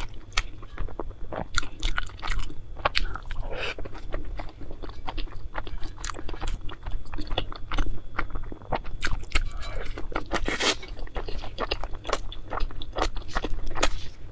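Close-miked eating: biting into and chewing golden dumplings, with a dense run of wet, crackling mouth clicks and crunches and one louder crunch about two-thirds of the way through.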